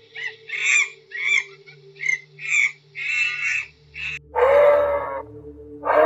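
Animal calls: a run of short calls, about one every half second or so for the first four seconds, then a long call of steady pitch about four seconds in and another starting near the end, over a faint steady low hum.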